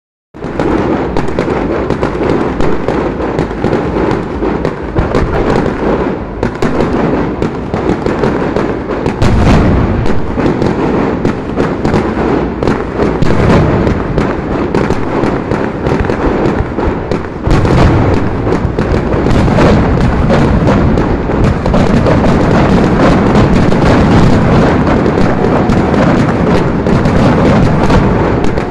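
Fireworks display: a dense, continuous barrage of bangs, crackles and deep booms, heaviest at about nine seconds in and again from about seventeen seconds on.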